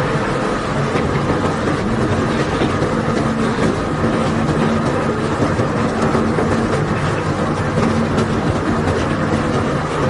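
Crushed limestone pouring and rattling off a barge's unloading conveyor in a steady stream of stone clatter, over the constant hum of the unloading machinery.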